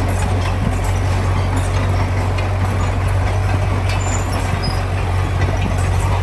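Heavy diesel engine of an earthmoving machine running steadily, with a strong low hum and a few light clicks and knocks over it.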